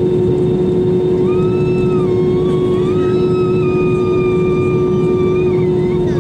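Airbus A320-200 cabin noise with the engines running: a steady hum over a low rumble, with a higher whine that comes in about a second in and wavers in pitch before fading near the end.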